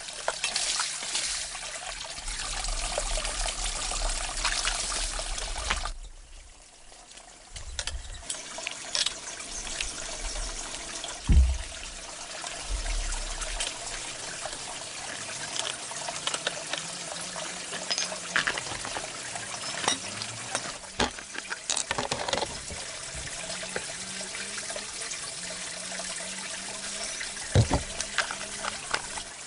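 Water running and trickling, with scattered knocks and clinks. It drops away briefly for about a second and a half, about six seconds in.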